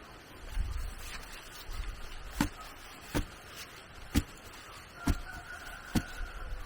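Regular sharp blows of a hand tool striking wood or bamboo, about one a second, each with a short dull thud.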